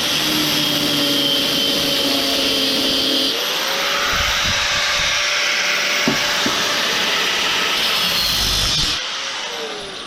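Angle grinder cutting through metal, its motor whining steadily over a harsh grinding hiss. Near the end it is switched off and the whine falls away as the disc spins down.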